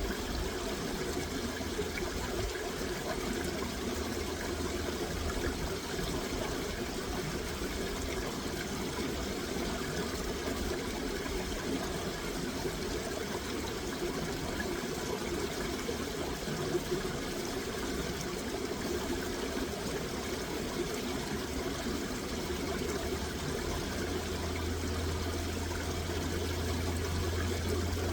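Running water flowing steadily, a continuous trickling rush with no breaks.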